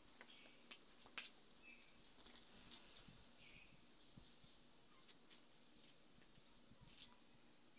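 Near silence, with faint scattered bird chirps and a few soft taps.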